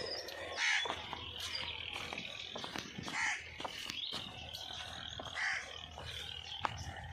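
A bird calling three times, about two and a half seconds apart, over a fainter steady background of small chirps and light clicks.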